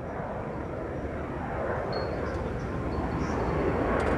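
Aircraft passing at an air show: a dense engine roar that grows steadily louder as it approaches.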